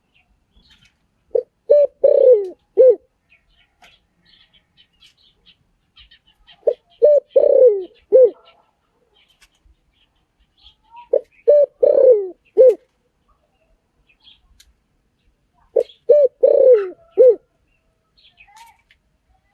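Spotted dove cooing: short phrases of four or five low notes, repeated four times about every four and a half seconds. Faint chirps of small birds sound between the phrases.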